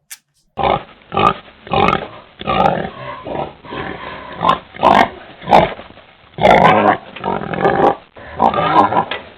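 Pig oinking, a run of a dozen or so short calls.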